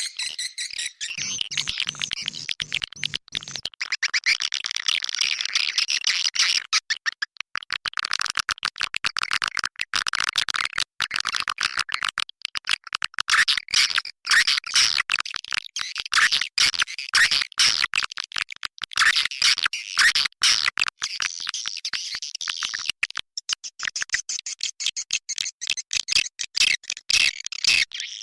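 Swiftlet call-sound lure track: a dense, continuous stream of rapid high chirps and twitters of swiftlets, the kind of recording played to attract swiftlets to a nesting house.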